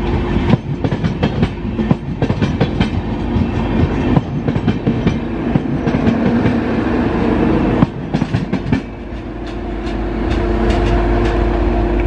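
A train rolling past at speed, its wagon wheels clattering rapidly over the rail joints. About nine seconds in the clatter stops and a steady engine hum with a constant low tone takes over.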